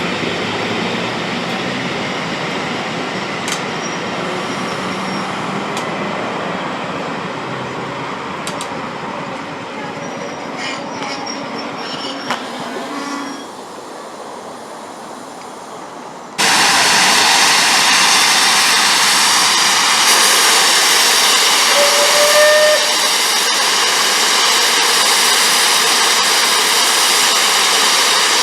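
A steam-hauled train running past on the rails, a dense rushing noise with scattered wheel clicks and squeals. About sixteen seconds in it cuts abruptly to a louder, steady, brighter rushing noise, with a short pitched tone a few seconds later.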